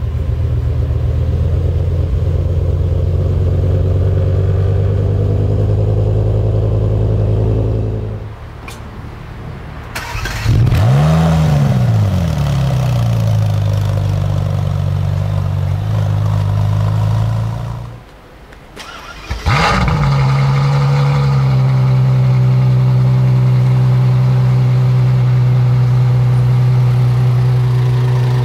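Three supercar engines in turn. A BMW M6's 5.0-litre V10 idles steadily. About ten seconds in, a Ferrari starts with a rev flare that rises, falls and settles into a burbling idle. Near the end, a Ferrari F12berlinetta's V12 fires up with a short flare and settles into a steady idle.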